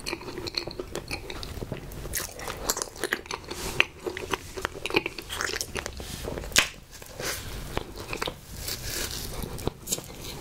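Close-miked chewing of a pink Sno Ball snack cake (chocolate cake under a marshmallow-and-coconut coating), with many short wet mouth clicks and smacks.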